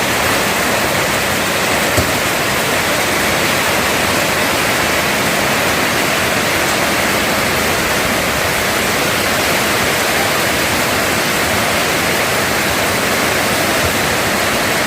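Heavy rain pouring in a steady, loud hiss.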